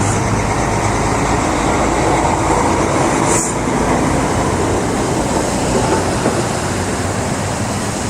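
Highway traffic on a road detour: a steady, loud rumble of engines and tyres with a low engine hum underneath, and a brief hiss about three and a half seconds in.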